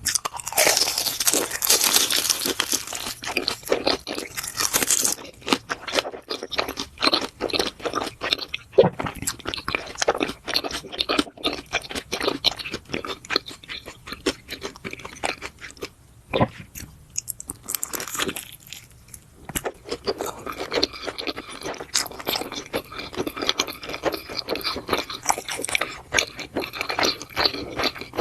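Close-miked chewing of food, with a dense burst of crunchy, crackling bites in the first five seconds, then steady irregular chewing with a few short pauses.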